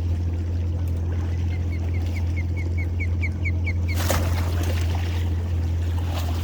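Boat motor running with a steady low hum. Through the middle, a quick series of short high chirps comes about four a second. From about two-thirds in, water splashes and dribbles.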